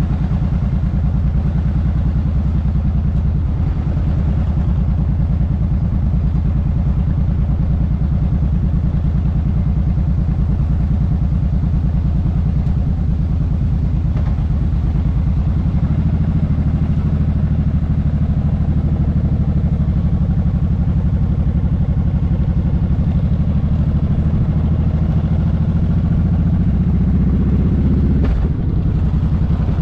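Motorcycle engine and exhaust running steadily at road speed, with rushing air and road noise over it. The engine note steps up about halfway through and dips briefly near the end.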